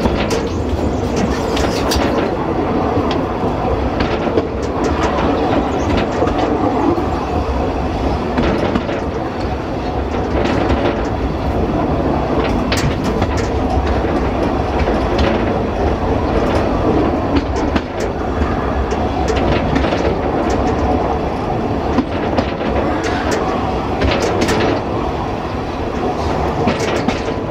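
Narrow-gauge train running along the track: a steady rumble with wheels clicking over the rail joints at irregular intervals.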